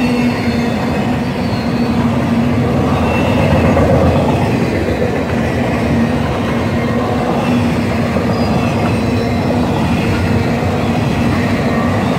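Double-stack intermodal freight train's well cars rolling past at close range: a steady, loud rumble of steel wheels on rail with a constant hum, and faint high wheel squeals here and there.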